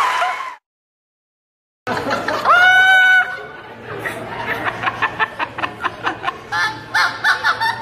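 Applause fades out and the sound cuts to silence. Then a parrot gives one loud, held whistle-like call and breaks into quick, repeated laugh-like chattering notes.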